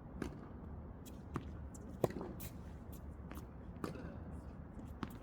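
Tennis balls being struck with rackets and bouncing on a hard court during a drill: a series of sharp pops at uneven spacing, the loudest about two seconds in.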